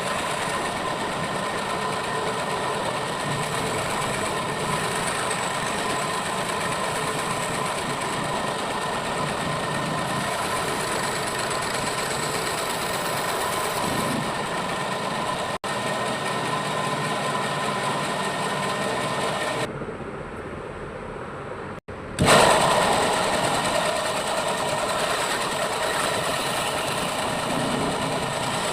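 Electric woodworking power tool running steadily. About two-thirds of the way through it drops quieter for a couple of seconds, then comes back suddenly louder and settles again.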